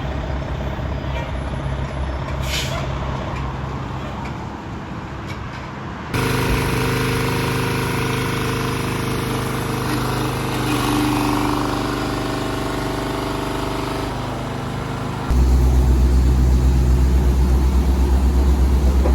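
Fire trucks' diesel engines running steadily, heard in three stretches that change abruptly about six seconds in and again near the end.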